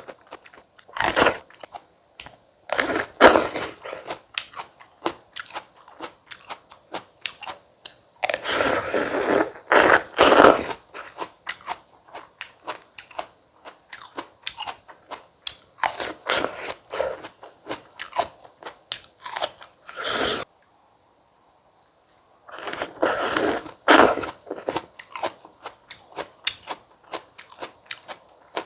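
Close-miked biting and chewing of crisp stone fruit: loud crunchy bites every few seconds, with many small wet chewing clicks between them. The sound cuts out completely for about two seconds past the middle.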